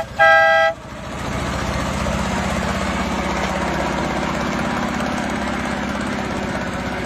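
A vehicle horn toots once, a two-note horn ending in the first second. Then an engine idles steadily with an even low pulse.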